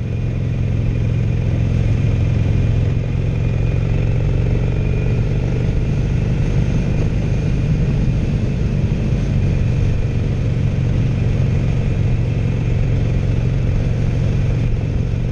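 Air-cooled 1200 cc V-twin of a 2016 Harley-Davidson Sportster Roadster (XL1200CX) on its stock factory exhaust, running at a steady cruise as heard from the saddle. The pitch stays level after picking up slightly in the first couple of seconds.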